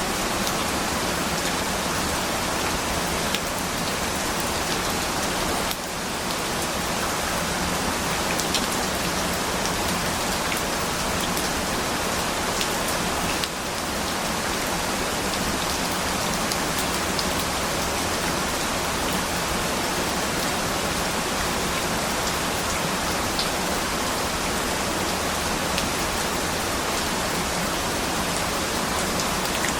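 Steady rain falling: an even, dense hiss of rain on surfaces with scattered faint drop ticks, dipping slightly in level twice.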